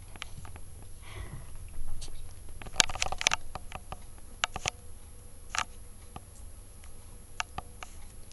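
Small scratchy, pattering sounds with scattered sharp clicks, a quick cluster of clicks about three seconds in, as of kittens scuffling about.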